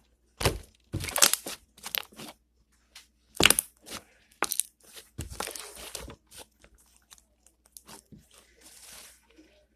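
Slime being squished and worked by hand: an irregular string of sharp, wet pops and crackles as trapped air bursts. The pops are louder in the first few seconds and thin out toward the end.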